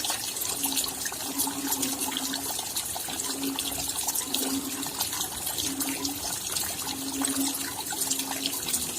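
Steady rain, a dense patter of raindrops, with a low tone coming and going about once a second.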